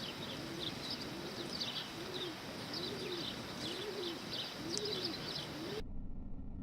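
Sparrows chirping in short high bursts over a low cooing call that rises and falls, repeating about every three-quarters of a second. Near the end the sound cuts off abruptly, leaving only a low hum.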